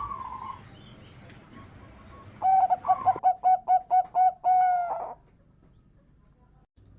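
Zebra dove (perkutut) cooing: a short note right at the start, then about two and a half seconds in a fast run of about ten clipped coos ending in one longer drawn-out note.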